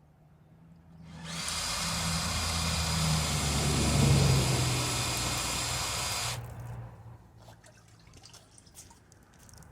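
A loud steady hiss with a low hum under it, starting about a second in and cutting off sharply about five seconds later.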